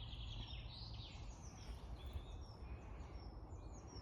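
Faint woodland birdsong: several small birds singing, many short chirps and trills overlapping, over a low steady rumble.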